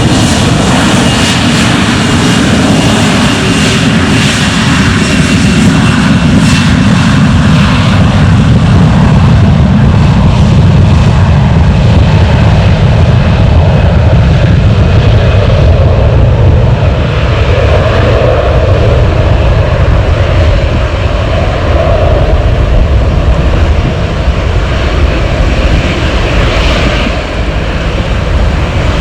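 Airbus A321 jet engines at takeoff power, a loud, steady, deep rumble. A thin high whine is heard in the first few seconds and fades.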